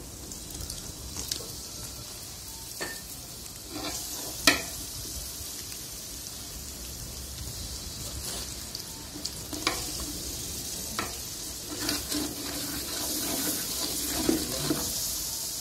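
Biryani masala sizzling in a large aluminium pot as curd is squeezed in and stirred with a ladle. The ladle scrapes and clicks against the pot now and then, the sharpest knock about four and a half seconds in.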